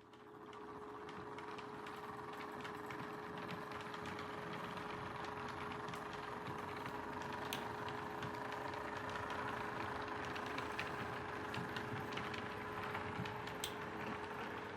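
Model train running on layout track: a steady motor and wheel rumble that swells over the first two seconds and then holds, with a few sharp clicks scattered through it.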